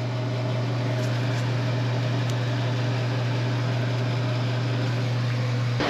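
Electric drain-cleaning machine's motor running steadily with a low, even hum, cutting off abruptly near the end.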